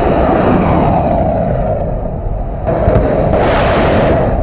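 Kalibr cruise missile launching from a warship: the launch booster's loud, steady rushing roar, which swells again about three seconds in.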